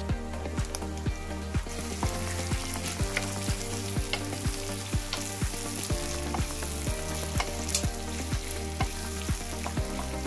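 Winged beans stir-frying in hot oil in a pan: a steady sizzle that grows louder about two seconds in, with a wooden spatula stirring. Background music with a steady beat, about two a second, plays throughout.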